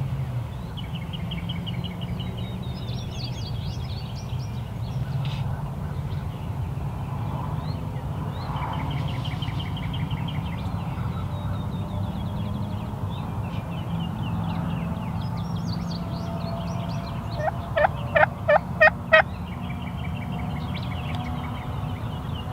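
Turkey calling with a quick run of about seven loud, evenly spaced notes near the end, over songbirds chirping and trilling and a steady low rumble.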